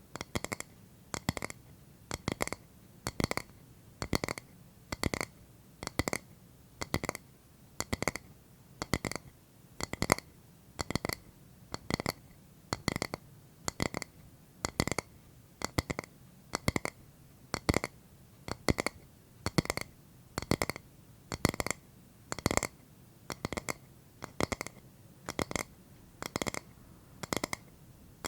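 Rhythmic ASMR tapping on a hard object that rings briefly with each hit, in short clusters of taps about once a second.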